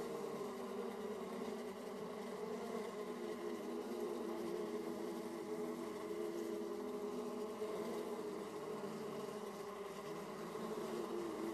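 Honeybees buzzing in flight at a beehive entrance: a steady hum of many overlapping wingbeat tones that waver as bees come and go.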